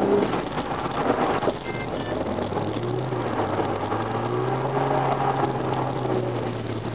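Holden VY Commodore S's 3.8-litre V6 running under light throttle, heard from inside the cabin with tyre and road noise. The engine note rises a little about two and a half seconds in, then holds steady.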